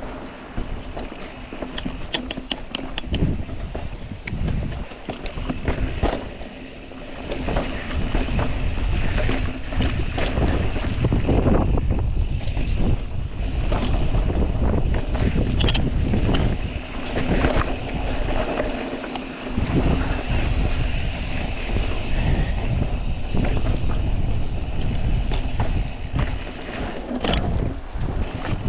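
Wind buffeting the microphone of a mountain bike rider descending a rocky singletrack, with scattered clicks, knocks and rattles from the bike over rock.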